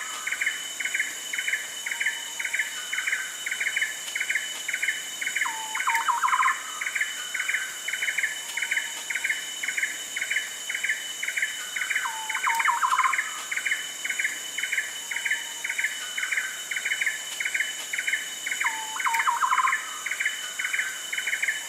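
Rainforest ambience: a steady, rapid series of chirps about two to three a second, with a short burst of quick notes roughly every six and a half seconds. A continuous high-pitched insect drone runs underneath.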